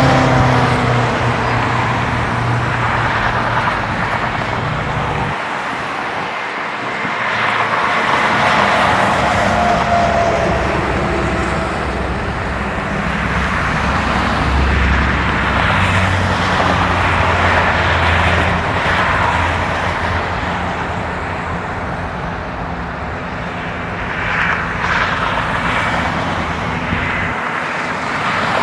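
Steady road traffic noise: car engines running and tyres on the road, with no clear firework bangs.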